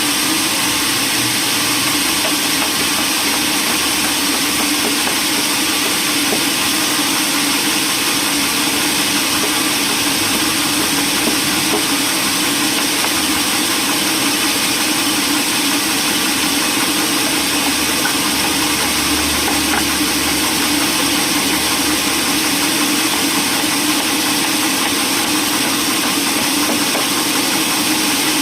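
Machinery running steadily, a constant engine-like drone with hiss that does not rise or fall.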